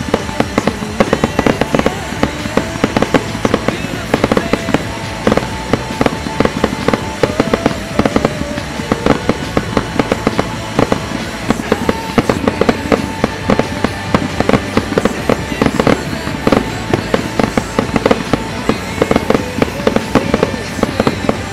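Fireworks display: many rapid bangs from aerial shells bursting in quick succession throughout, with music playing underneath.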